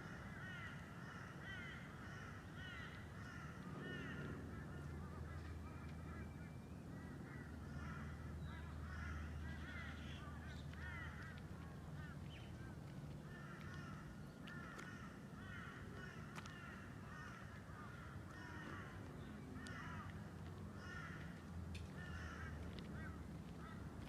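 Birds calling in quick clusters of short chirps that keep coming and going, over a low steady hum.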